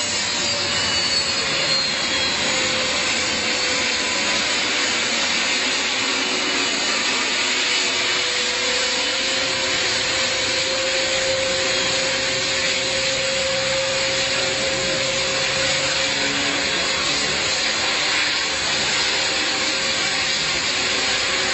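Jet engines of an amphibious aircraft running at high power, a loud steady rushing noise with a faint whine that dips slightly in pitch and then holds.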